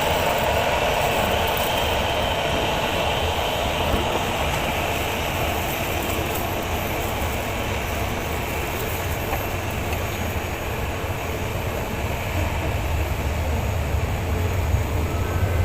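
Steady rumble of an aircraft's engines, easing a little midway and building again near the end.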